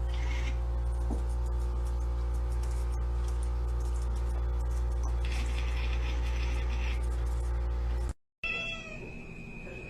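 A domestic cat meowing over a steady low hum. The hum stops abruptly about eight seconds in, and a short cry falling in pitch follows.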